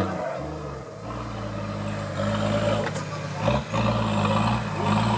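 Off-road competition vehicle's engine revving under load, its pitch stepping up and down as the throttle is worked, with a brief drop and surge about three and a half seconds in.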